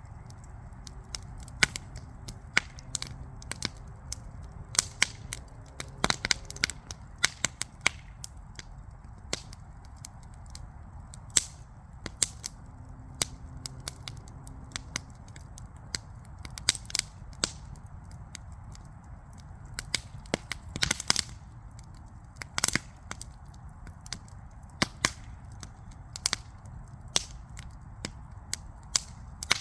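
Wood fire crackling: irregular sharp pops and snaps over a low steady background, with a quick flurry of pops about two-thirds of the way through.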